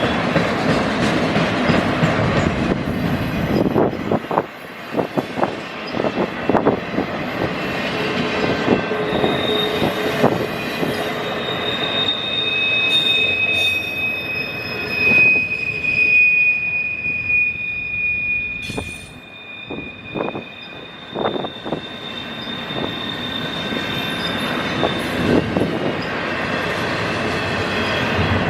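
Train cars rolling past with a rumble and repeated clacks of wheels over rail joints. A high, steady wheel squeal comes in about a third of the way through and holds for most of the rest.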